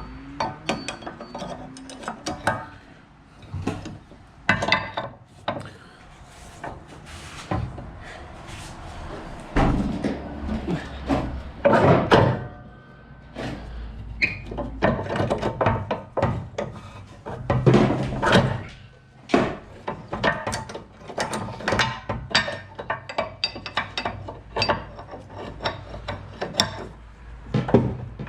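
Irregular metal clanks, knocks and scrapes of steel parts being handled and fitted together, a few loud knocks among many lighter ones.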